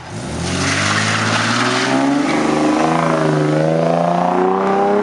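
A car engine revving loudly: it climbs in pitch from about half a second in over roughly three seconds, then is held at high revs.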